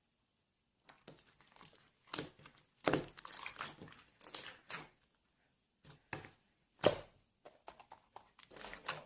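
Clear slime being pressed and stretched by hand, making irregular crackling and popping sounds after a quiet first second; the sharpest pops come about three and seven seconds in.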